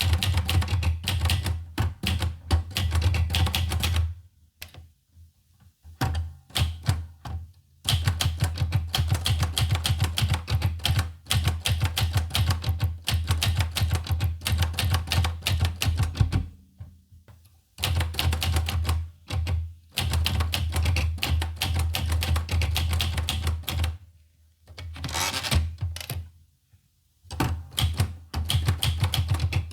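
Olivetti Lettera 25 manual portable typewriter being typed on: fast runs of key strikes, broken several times by short pauses of a second or two.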